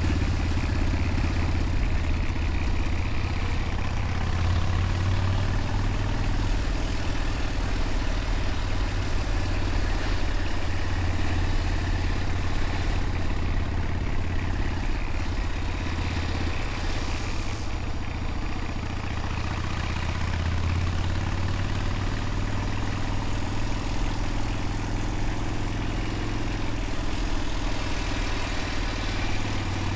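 Motorcycle engine running steadily while being ridden. Its low note rises and falls gently with the throttle.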